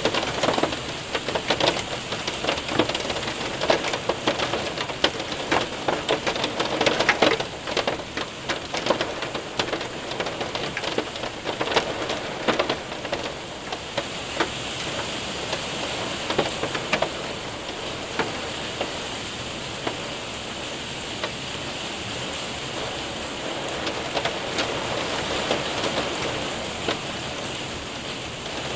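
Hail and rain hitting a window and roof: a steady rush of rain with many sharp ticks of hailstones, dense in the first half, thinning to a more even patter later on.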